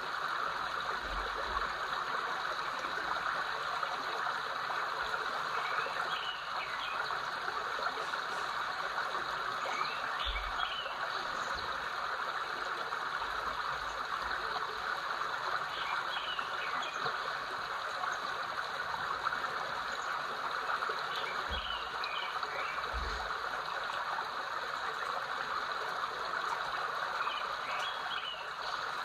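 River or stream flowing steadily, with short chirping animal calls repeating every five or six seconds.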